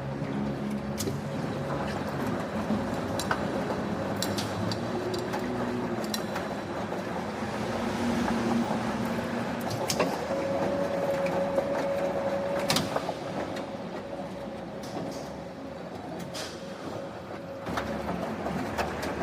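Factory machinery running with a steady hum and a held whine, broken by occasional sharp metallic clanks.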